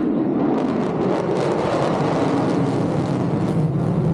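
F-35A Lightning II's Pratt & Whitney F135 jet engine at high power in flight, a loud, steady jet noise. It grows brighter for a few seconds in the middle, then eases.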